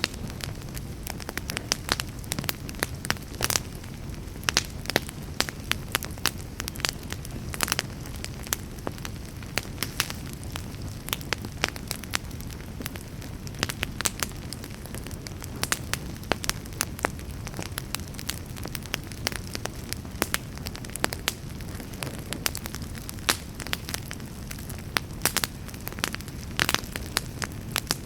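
Wood campfire crackling steadily, with frequent sharp, irregular pops over a low, even rush of burning.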